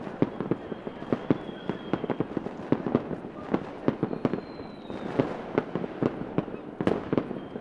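Fireworks going off: an irregular, rapid string of sharp bangs and crackles, several a second. A faint whistle glides slightly down about four seconds in.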